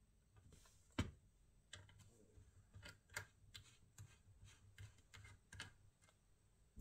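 Faint, irregular small clicks and taps: one sharper click about a second in, then about a dozen lighter clicks at uneven intervals.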